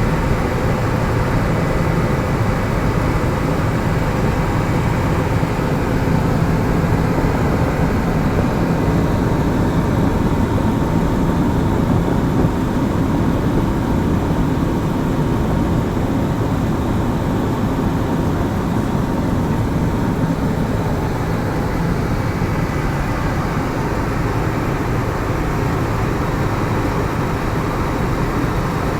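Helicopter running steadily: a loud, even drone of rotor and engine, with faint steady whine tones above it.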